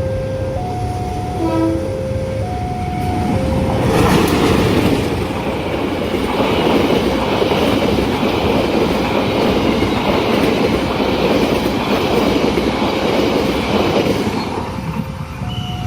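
A train passes close by a level crossing, its wheels rumbling and clacking over the rails for about ten seconds. It starts about four seconds in and drowns out the crossing's two-note warning chime, which is heard at the start and again near the end.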